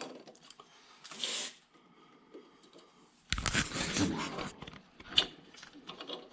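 Hand-handling noises as piston rings are worked onto a piston: a brief scrape, then a longer rubbing and rustling, and one sharp click near the end.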